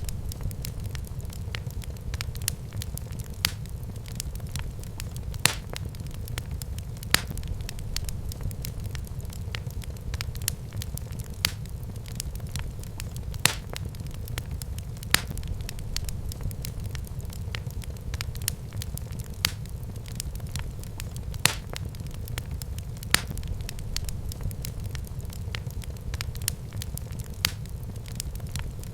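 Wood fire burning in a fireplace, crackling: sharp pops every second or two over a steady low rumble of the flames.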